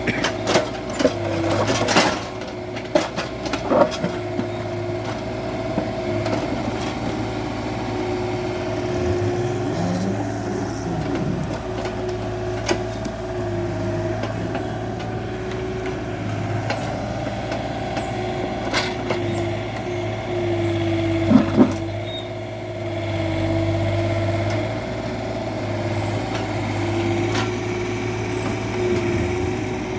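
Hydraulic excavator's diesel engine running steadily while digging, its pitch dipping now and then under hydraulic load. Scattered knocks and clatter of the bucket and soil come through, several in the first few seconds and a loud pair a little past two-thirds through.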